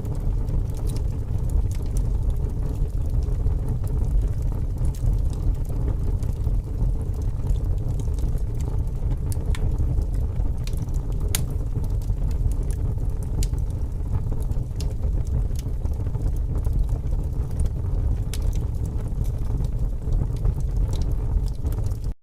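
Wood fire crackling, with scattered sharp pops and snaps, over a steady low rumble of strong wind.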